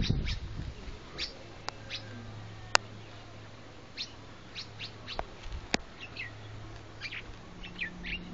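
Small birds chirping: short, high calls scattered throughout, several each second at times. There are a few sharp clicks, the loudest about a third of the way in, and a faint low steady hum under the middle.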